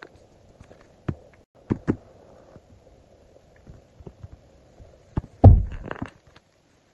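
Hands handling stickers and paper on a desk: scattered light taps and knocks, with one louder, deeper thump about five and a half seconds in.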